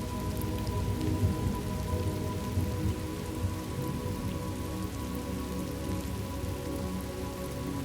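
Steady rain falling, with scattered drops ticking, over a few low held tones.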